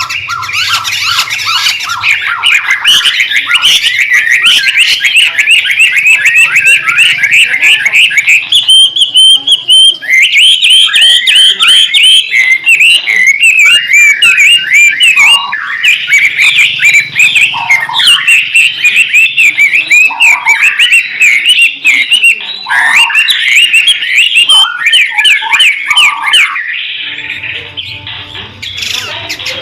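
White-rumped shama (murai batu) singing loudly in a busy, fast string of rapidly repeated chattering and whistled notes, easing off near the end.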